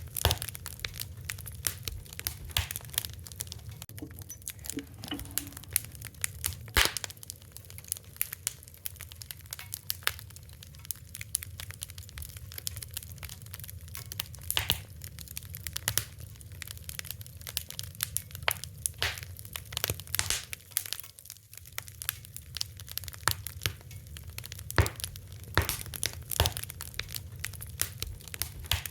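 Fire crackling, with frequent sharp pops and snaps of uneven loudness over a low, steady rumble.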